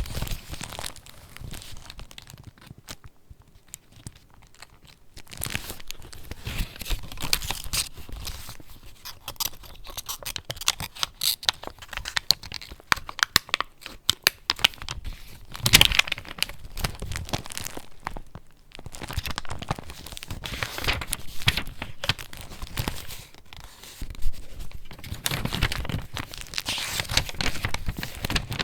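Paper pages of a handmade junk journal being turned and handled: irregular rustling and crinkling, with a lull a few seconds in and shorter pauses later.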